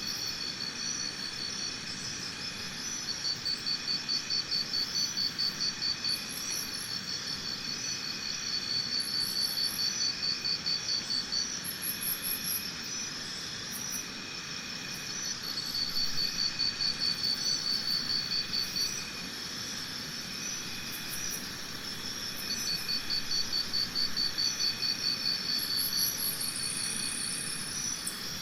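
Insects chirping: a high, pulsed trill of about three to four pulses a second that comes in runs of a few seconds with short pauses, over a fainter, steadier high chirping.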